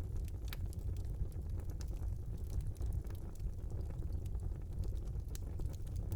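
Wood fire burning in a small fireplace: a steady low rumble of the flames with scattered sharp crackles and pops throughout.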